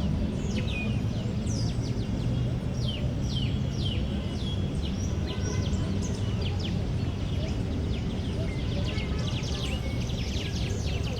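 Many small birds chirping throughout in quick, short notes that sweep downward, over a steady low rumble of distant city traffic.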